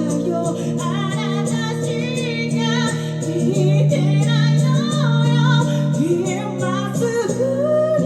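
A woman singing a ballad live over strummed acoustic guitar, her voice holding and bending long notes above steady chords.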